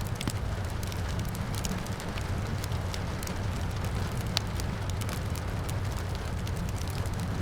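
Wood fire crackling in a fireplace, with irregular sharp pops and snaps over a steady low rumble of flames and rain; one louder pop about four and a half seconds in.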